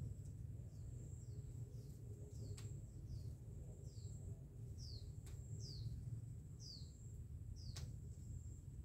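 A small bird repeating a short chirp that falls in pitch, roughly once a second. A few sharp clicks come in among the chirps.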